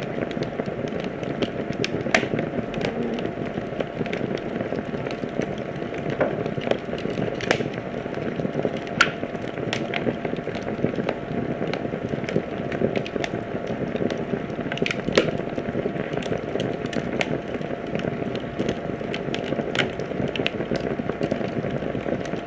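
Wood fire burning in a fireplace: a steady rushing hiss with frequent sharp crackles and pops, a few of them louder than the rest.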